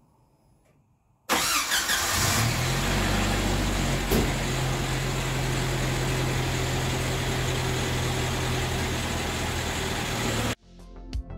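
1995 Jeep Wrangler YJ's four-cylinder engine starting about a second in, then settling into a steady idle. The sound cuts off suddenly near the end.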